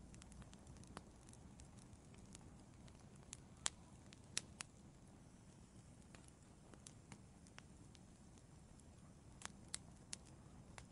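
Wood fire crackling in an outdoor fireplace: irregular sharp pops and snaps over a faint, low, steady rumble of burning. A few louder pops come about four seconds in and again near the end.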